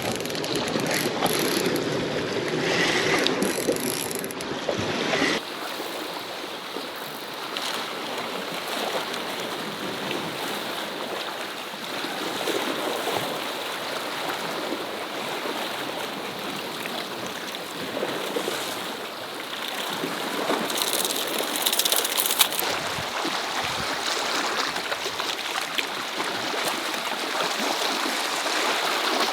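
Sea water rushing and washing against rocks, a steady noise that shifts in character about five seconds in, with a brief louder splash of hiss a little past the middle.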